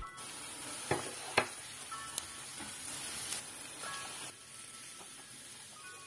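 Diced onions frying in oil in a nonstick pan with a steady sizzle. A wooden spoon knocks against the pan a few times while stirring. The sizzle drops a little about four seconds in, as chopped tomatoes go into the pan.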